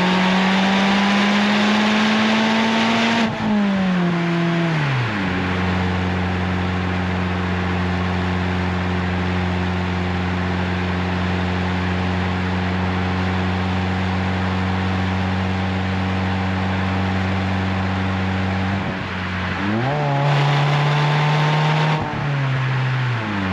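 Renault Twingo RS Gordini's 1.6-litre four-cylinder engine running through an Inoxcar 80mm stainless steel aftermarket exhaust while driving. The engine pulls up in pitch, then drops off about three seconds in and settles into a long steady cruise. Near the end it gives a short rise and fall in revs.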